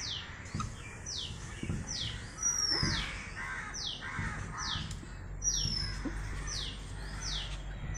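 A bird calling over and over, a short falling note about once a second, now and then with a longer, higher falling whistle.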